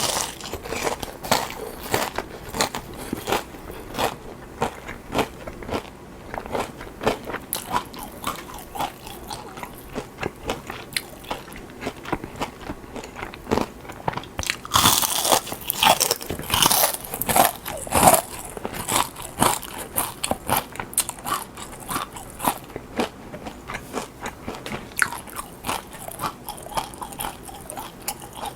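Close-miked eating sounds: a person biting, crunching and chewing food in quick, irregular bites, with a louder run of crunching about halfway through.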